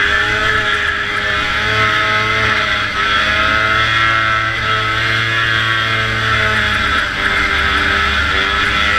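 Vintage racing snowmobile's two-stroke engine running hard at high revs, its pitch drifting up and down slightly as the throttle changes.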